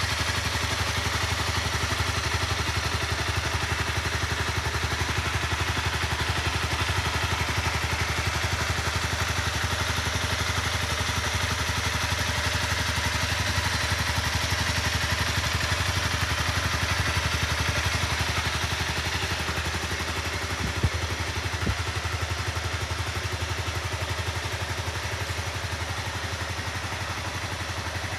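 Honda CBR250R's single-cylinder engine idling steadily. Two short clicks come about two-thirds of the way through.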